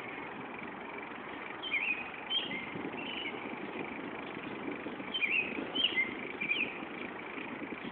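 Small birds chirping in short, quick sweeping calls, in two bursts of several chirps, about two seconds in and again about five to six and a half seconds in, over a steady hiss of outdoor background noise.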